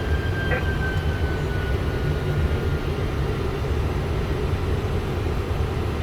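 Steady low rumble of airflow and engines in a Boeing 747-400 flight deck on final approach.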